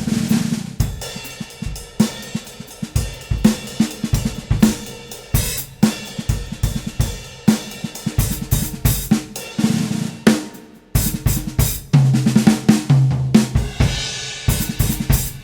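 A drum kit being played: snare drum, bass drum, hi-hat and cymbals in a continuous groove with fills. The snare is fitted with a muffler.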